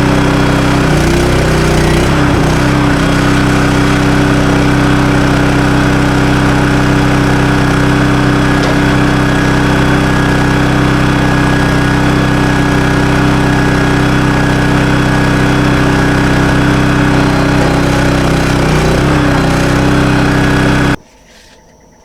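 Norwood HD 38 portable bandsaw mill's gas engine running steadily, with brief wavers in pitch about a second in and again near the end. The sound cuts off suddenly about a second before the end, leaving faint insect chirring.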